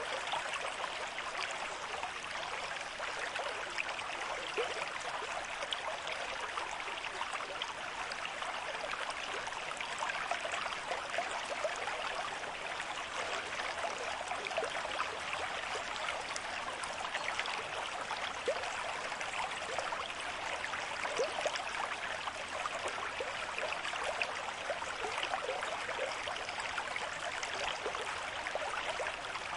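A river stream with moderate flow: a steady rush of water over stones, thick with small splashing and trickling sounds.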